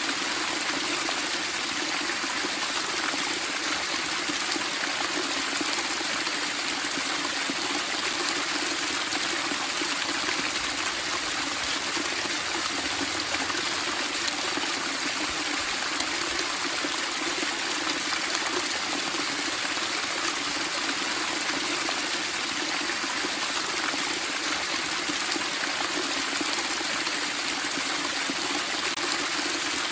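Flowing water babbling and splashing steadily, an even rushing hiss with no breaks or changes.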